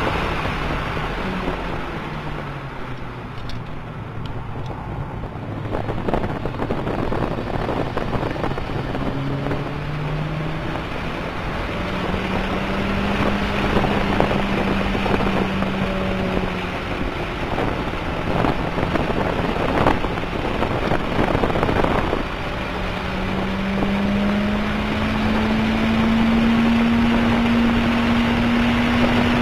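Toyota MR2 Turbo's 3S-GTE turbocharged four-cylinder, heard from inside the cabin at track speed. The engine note drops over the first few seconds as the car slows for a corner, then climbs again in steps and rises steadily near the end as it accelerates. Wind noise runs underneath.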